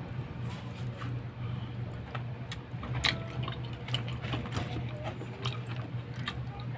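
Close-miked eating sounds: chewing and small wet mouth clicks as rice and braised meat are eaten by hand, over a steady low hum.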